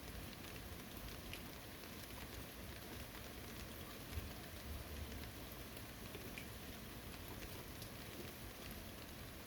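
Steady rain falling on a forest, a faint even hiss with many scattered small drop ticks and one slightly louder tick about four seconds in.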